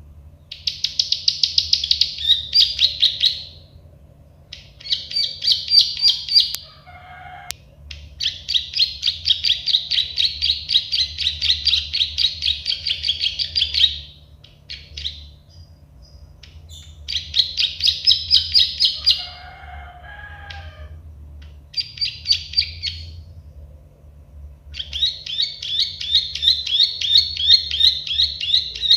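Plain prinia (prenjak sawah) singing its 'klik-klik' song: fast runs of repeated high, clicking notes in phrases of a few seconds, separated by short pauses. A steady low hum runs underneath.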